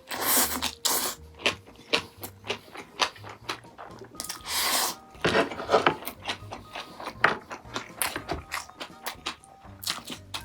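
Close-miked eating: wet chewing and mouth clicks, with a few longer hissy bursts, over quiet background music.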